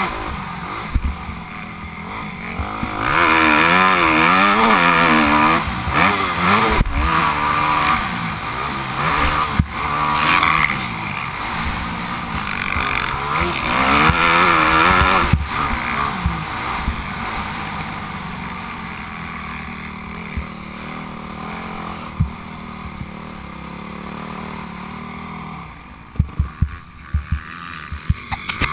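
Motocross bike engine revving up and falling back again and again as it rides, the revs wavering quickly. Near the end the engine settles lower and quieter, with a few sharp knocks.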